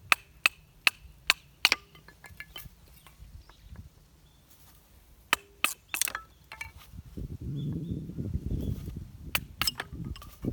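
Sharp knocks or taps, about two and a half a second at first, then a few scattered ones, with a low rumbling noise starting about two-thirds of the way in.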